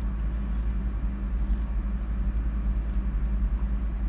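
Steady low rumble with a constant low hum underneath, unchanging throughout, with a couple of faint soft ticks.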